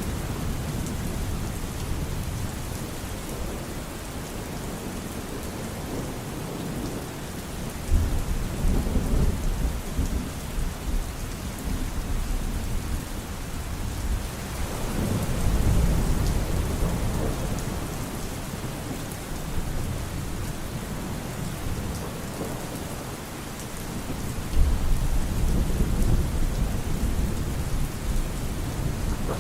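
Steady rain falling with rolling thunder rumbling in three swells, about 8 seconds in, midway, and near the end.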